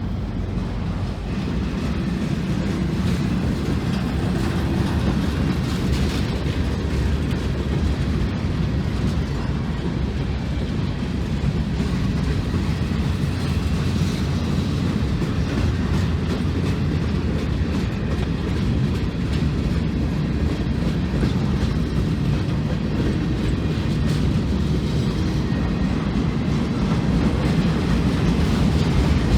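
Union Pacific freight train rolling past, its cars making a steady noise on the rails with occasional faint clicks from the wheels. It grows a little louder near the end.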